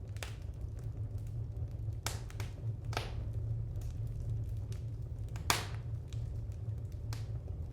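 Wood fire in an open fireplace crackling: scattered sharp pops, the loudest about five and a half seconds in, over a steady low rumble.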